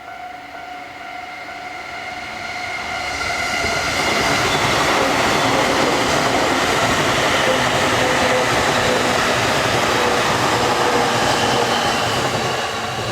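A train passing over a level crossing. The rushing noise of its wheels on the rails builds over a few seconds, stays loud, then falls away near the end. The crossing's warning bell rings steadily underneath, clearest at the start and the end.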